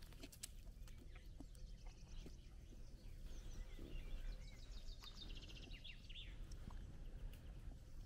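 Faint bird song: a run of quick high trills and chirps around the middle, with a few soft clicks over a quiet outdoor background.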